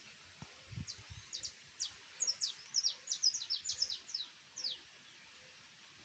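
Small birds chirping: a run of about a dozen quick, high chirps, each sliding down in pitch, some in tight clusters, stopping just before the five-second mark.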